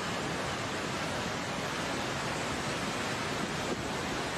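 Steady, loud rush of fast-flowing floodwater, an even noise without any distinct tones.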